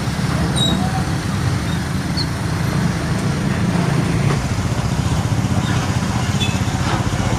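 Heavy road traffic with a large truck's diesel engine running close by: a loud, steady low rumble that takes on a fast, even pulsing from about halfway through.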